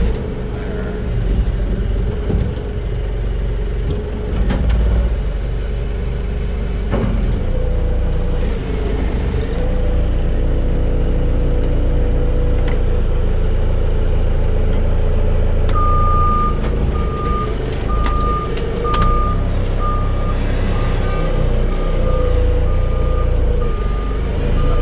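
Engine of a heavy lifting machine running steadily, its pitch wavering a little as it works. About two-thirds of the way through, a reversing alarm starts beeping, a bit over one high beep a second.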